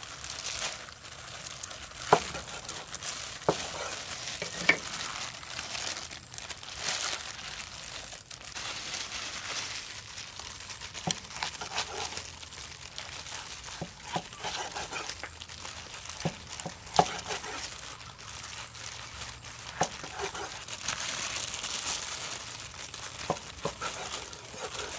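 Food sizzling as it fries: a steady hiss with scattered sharp clicks and taps.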